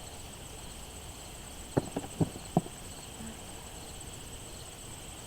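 Steady high chorus of crickets and other insects, with four short sharp sounds in quick succession about two seconds in.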